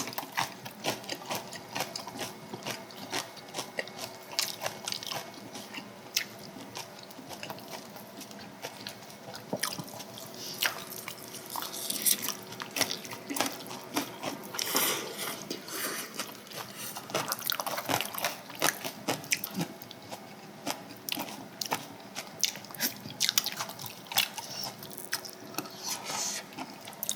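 Close-up eating sounds from a meal of samgyetang and kimchi: chewing and crunching, wet mouth sounds and frequent small clicks of utensils. There are several longer wet slurps.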